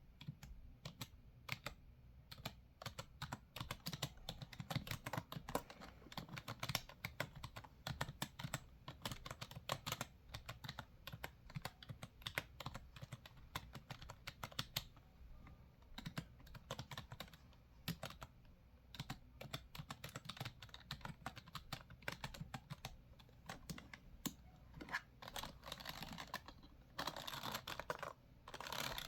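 Typing on a computer keyboard: a steady, irregular stream of key clicks, several a second.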